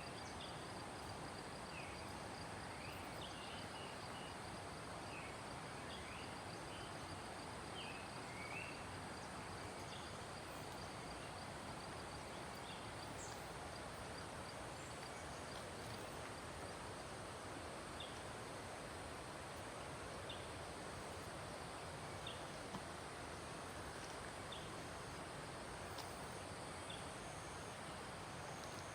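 Mountain forest ambience: the steady rush of a running stream under a continuous high insect trill, with short bird chirps that come thickly at first and thin out to occasional calls after about nine seconds.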